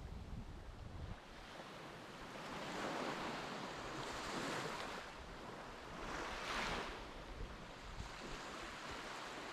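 Sea waves washing in, the surf swelling twice, with wind buffeting the microphone.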